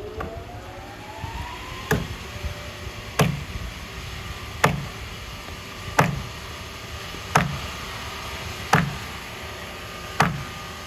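Sawmill machinery running with a steady hum and a whine that rises in pitch over the first two seconds. Seven sharp knocks repeat evenly about every second and a half.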